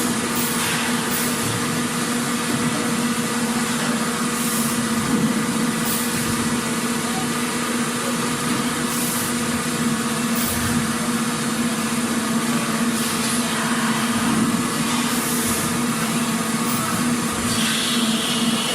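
Factory machinery running steadily: a constant low hum under a wash of mechanical noise, with brief high hisses every few seconds.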